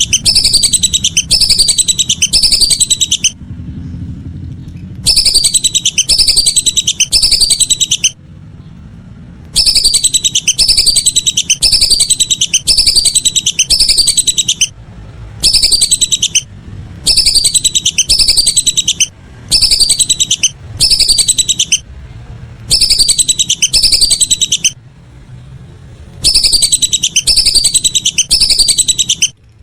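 Whistling ducks calling: runs of shrill descending whistles, several a second, repeating in bursts of one to three seconds with brief pauses between.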